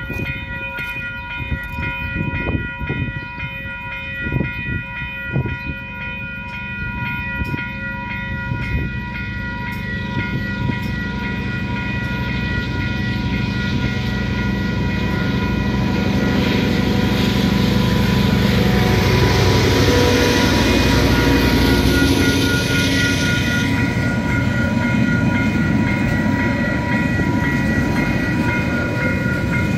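Level crossing alarm bells ringing steadily as a diesel freight locomotive approaches, its engine rumble building until it passes about two-thirds of the way through. Then the container wagons roll past the crossing with a steady rumble and clatter of wheels on the rails.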